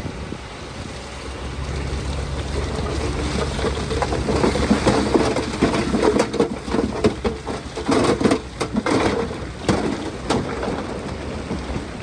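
Heavy diesel earth-moving machinery running with a steady low rumble, joined a few seconds in by a dense crackle and clatter of rock and dirt tumbling and scraping, which eases off near the end.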